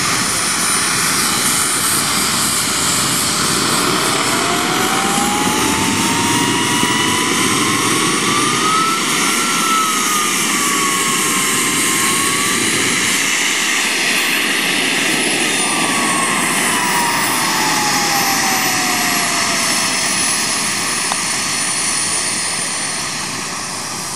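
A model jet engine running loudly, a rushing noise with a whine that climbs in pitch, dips, then slides down again.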